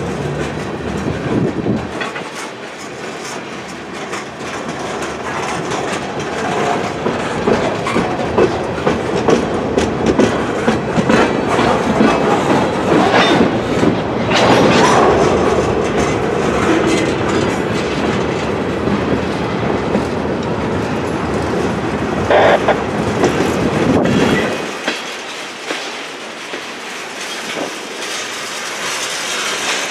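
Freight train of tank cars and covered hopper cars rolling past at close range, the wheels on the rails making a steady running noise, with a few sharper, louder moments partway through. The deep rumble drops away about 25 seconds in.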